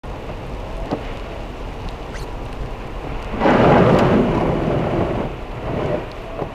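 Heavy rain on a car, picked up by its dashcam, with a louder rushing surge of water noise about halfway through that lasts around two seconds.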